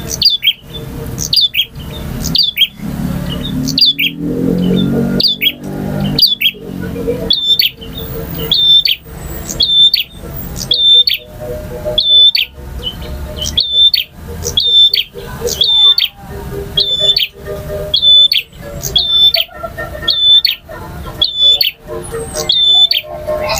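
Male prenjak (prinia) singing: a long, steady series of sharp, loud notes repeated about two a second, each with a quick hooked whistle.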